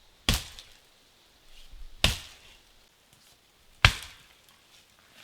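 An axe chopping into wood: three blows about two seconds apart, each a sharp crack.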